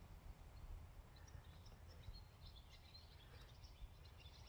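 Faint birds chirping, short high calls starting about a second in and getting busier toward the end, over a low steady rumble.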